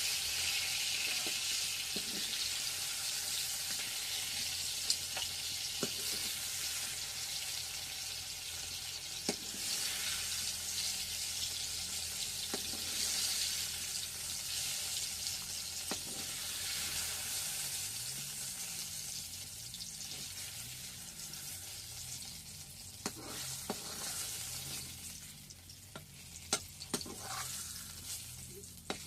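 Food frying in hot oil in a pan, sizzling steadily, with scattered clicks of a utensil stirring against the pan. The sizzle dies down over the last several seconds.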